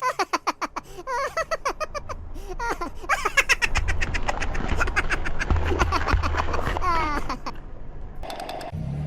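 Laughter in quick high-pitched pulses that rise and fall in pitch, going on in bouts with a brief break near the end.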